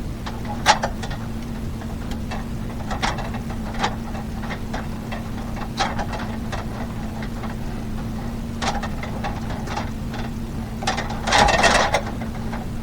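Scattered light clicks and knocks of handwork, about six across the stretch, with a brief scraping rasp near the end. Under them runs a steady low hum.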